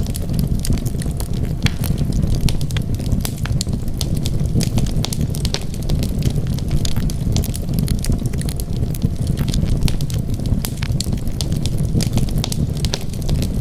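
Wood fire burning in a fireplace: frequent sharp crackles and pops over a steady low rumble of flames.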